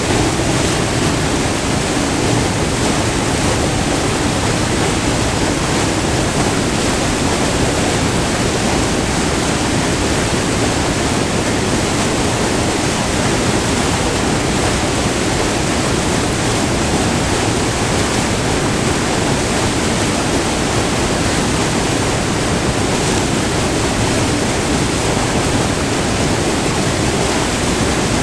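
Multi-tiered river waterfall with white water: the steady, loud rush of water falling and flowing over rock.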